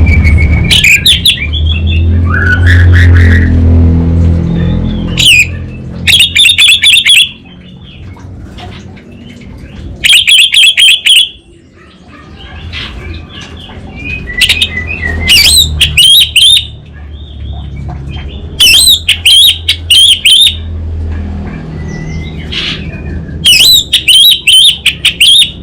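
Orange-headed thrush singing loud phrases of rapid, sweeping whistled notes, one every three to five seconds, with softer notes between them over a low steady hum.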